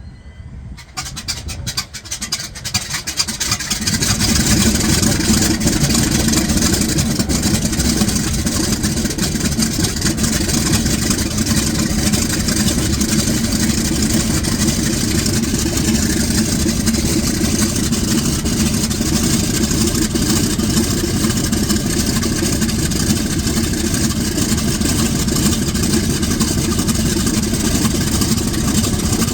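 A Corsair's Pratt & Whitney R-2800 eighteen-cylinder radial engine starting. It fires raggedly at first, catches within about four seconds, then runs steadily and loudly.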